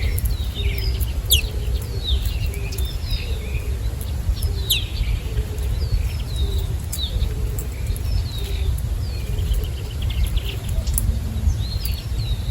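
Many small birds chirping and calling in quick, short notes, some sliding down in pitch, over a steady low rumble.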